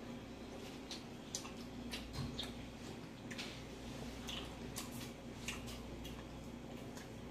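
Close-up eating sounds: irregular wet smacks and clicks of chewing soft food, over a faint steady hum.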